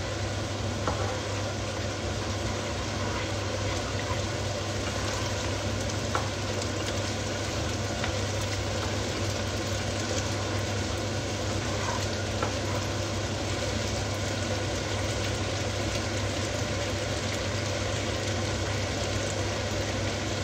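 Sambal for crispy anchovy sambal frying in a pan: a steady sizzle, with a steady low hum underneath and a few faint clicks.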